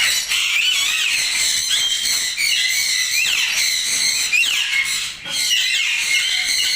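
Many caged parrots calling at once: a dense, continuous chorus of high-pitched squawks and chirps.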